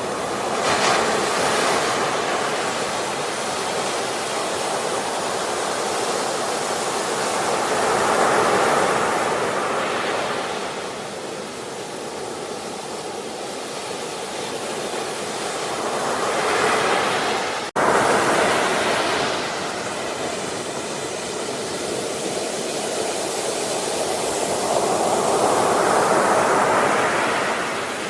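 Ocean waves breaking and washing ashore, a steady rush of surf that swells and ebbs every six to nine seconds. About two-thirds of the way through, the sound cuts out for a split second, like an edit splice.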